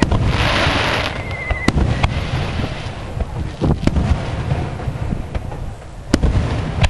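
Aerial firework shells bursting in a display: repeated sharp bangs over a continuous low rumble of echoing booms. A dense crackling shower comes in the first second, with a short whistle about a second and a half in.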